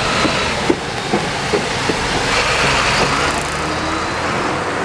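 A vehicle passing close by at a level crossing: a steady rush of noise that swells about halfway through.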